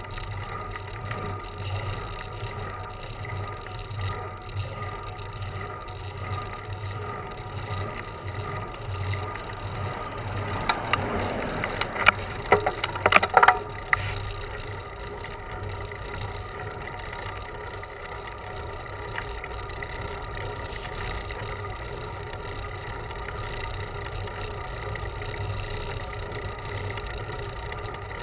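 Bicycle riding on a road: a steady low rumble from the ride runs throughout. A short cluster of sharp clicks and rattles comes about halfway through.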